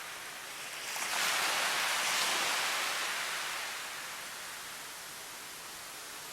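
Ocean wave breaking about a second in, swelling and then washing away over the next few seconds, above a steady hiss of water.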